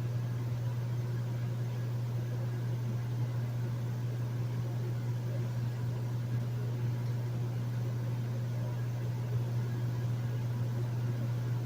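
Hotel room air conditioner running steadily: a strong, even low hum with a soft airy hiss over it.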